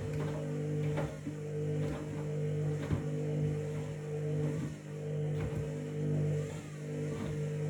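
Washing machine drum turning with a bath mat inside: a steady motor hum, with a soft thud about once a second as the load drops.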